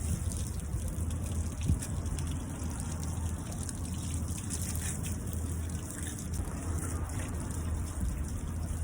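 Water gushing from a hose onto a car in a steady rush, with one brief knock about two seconds in.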